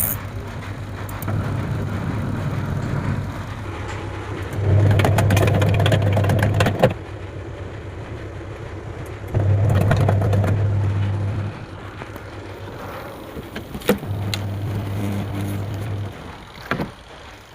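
Washing machine motor humming in bursts of about two seconds, with pauses of about the same length between them, while the machine is switched on and tested. A couple of sharp clicks come near the end.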